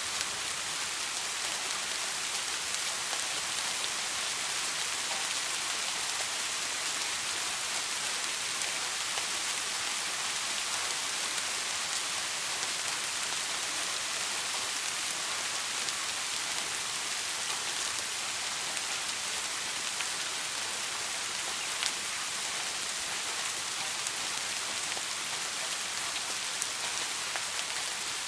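Soft rain falling steadily: an even, high hiss with a few sharper drop ticks, one standing out about 22 seconds in.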